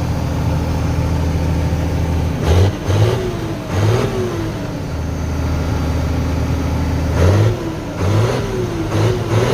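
Old combine engine running after a cold start: a steady idle, then several quick revs about two and a half seconds in, back to a steady idle, and more revs from about seven seconds on.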